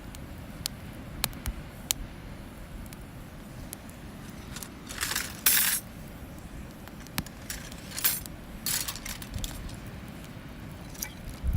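Wood campfire crackling, with scattered sharp pops and clicks and a few louder short hissing bursts around the middle.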